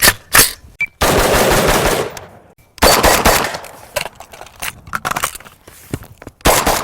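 A series of sharp, loud bangs at uneven intervals, two of them trailing into long rushing noise lasting about a second each, the first about a second in and the second near the middle.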